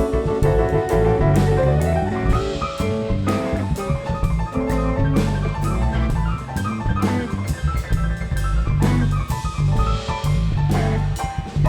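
A live band plays an instrumental passage with no singing. The drum kit keeps a steady beat under held notes from the other instruments.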